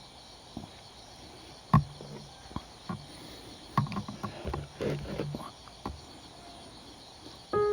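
Crickets chirping steadily in the background, with scattered sharp clicks and knocks: one loud knock about two seconds in and a cluster of them around the middle. Piano music starts at the very end.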